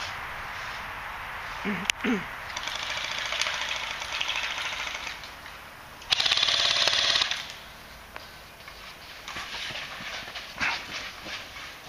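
Airsoft gun firing on full auto: a rapid stream of clicks, loudest in a burst lasting a little over a second about six seconds in.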